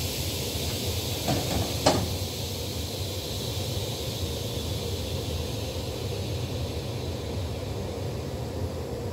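Regional passenger train standing at a station platform, giving off a steady low hum with a fading high hiss. A faint click about a second in is followed by a sharper clack just under two seconds in.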